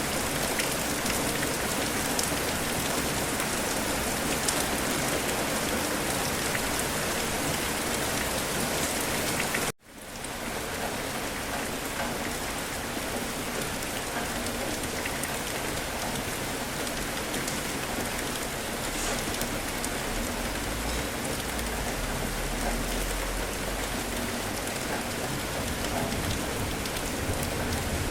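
Steady rain falling, an even hiss. The sound cuts out abruptly for a moment about ten seconds in and fades back up. A low rumble builds under the rain in the last several seconds.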